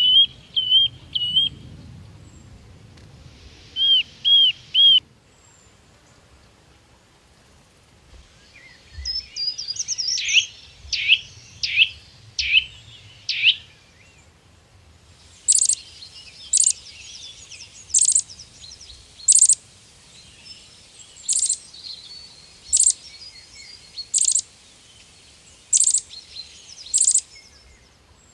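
Birds calling in several separate stretches: a few quick chirps at the start, three hooked notes a few seconds in, then a run of sharp notes sweeping downward, and finally loud high notes repeated about once a second over a thin twitter.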